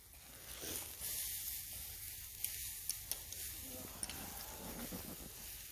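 Pork chops sizzling over campfire coals: a steady hiss with a few faint crackles.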